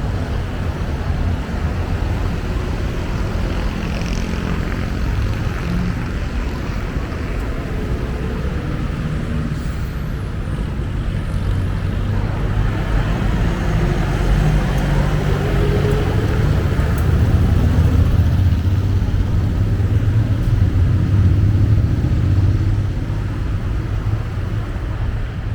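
Steady road traffic noise from passing vehicles, swelling louder for several seconds past the middle before easing.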